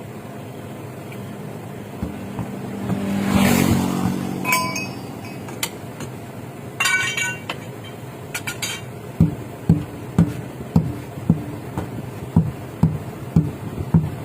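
Metal tools clinking and ringing, then a steady run of hammer blows about twice a second, as in tyre repair work.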